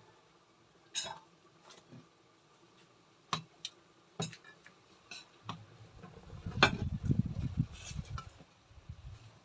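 Kitchen utensils clinking against bowls and dishes: a few separate clinks, then about three seconds of busier clattering and stirring in a bowl.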